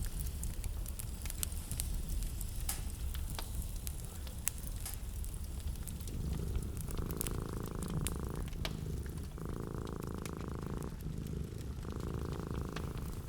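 Wood fire crackling in a fireplace, with scattered sharp pops over a steady low rumble. About six seconds in, a steady purring hum comes in three stretches of a second or so each, with short breaks between them.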